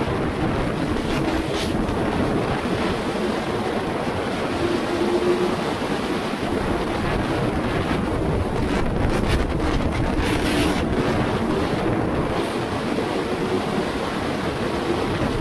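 Wind rushing over the microphone on a motorcycle at speed. The Aprilia RSV4 1100 Factory's V4 engine comes through faintly underneath as a steady drone.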